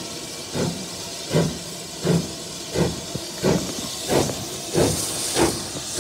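Britannia class two-cylinder steam locomotive pulling away, its exhaust beats chuffing about one and a half times a second and gradually quickening as it gathers speed, over a steady hiss of steam.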